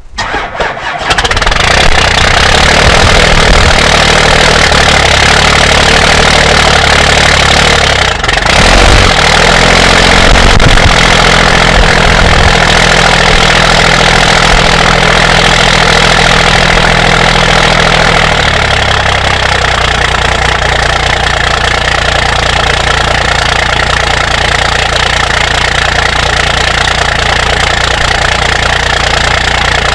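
First-generation Dodge Cummins 5.9 12-valve diesel cold-starting in freezing weather. It catches and builds up over the first couple of seconds, dips in speed briefly about eight seconds in and recovers, then settles into a lower, steady idle about eighteen seconds in. The owner thinks its grid heater is marginal.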